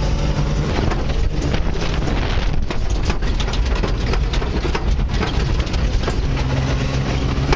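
Off-road race truck's engine running hard, heard from inside the cab, with frequent knocks and rattles from the truck over rough ground.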